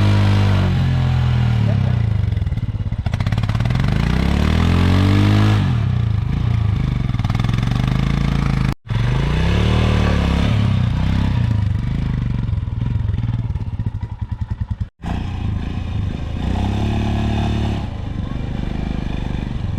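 Royal Enfield Himalayan's single-cylinder engine revving up and down over and over, with two brief breaks in the sound.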